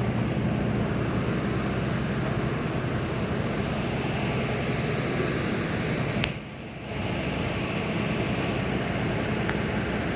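Steady low rumble of idling vehicles, with a brief dip in level about six seconds in.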